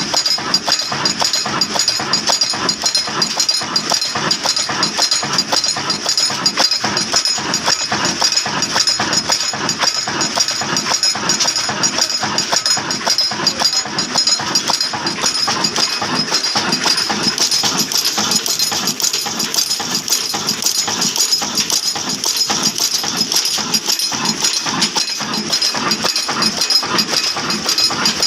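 Large old black diesel engine of the Ruston Hornsby kind running steadily, its exhaust beating evenly with a steady hiss over it.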